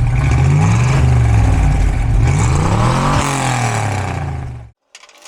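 Jasper 383 stroker V8 exhaust, running and revved twice, the pitch rising and falling each time. It cuts off suddenly near the end.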